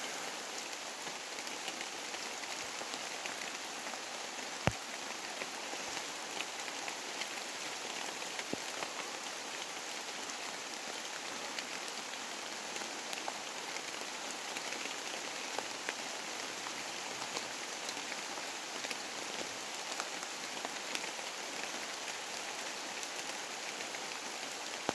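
Steady rain falling, with many separate drops ticking close by and one sharper tap about five seconds in.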